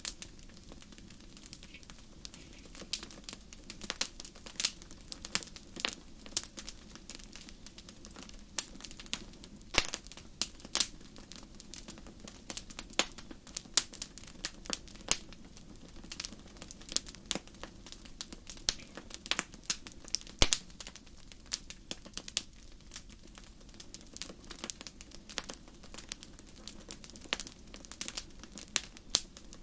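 Wood fire crackling, with irregular sharp pops and snaps several times a second over a soft low rumble of the flames.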